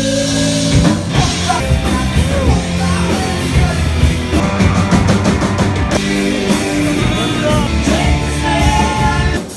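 Loud live band playing a rock song with a singer, heard from within the audience. The music breaks off abruptly near the end.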